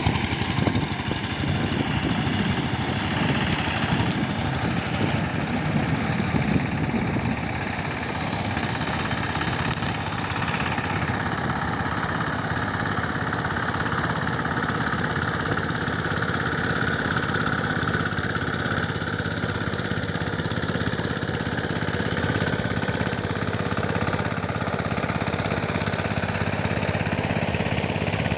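Power tiller engine running steadily with a rapid, even chugging, somewhat fuller during the first several seconds.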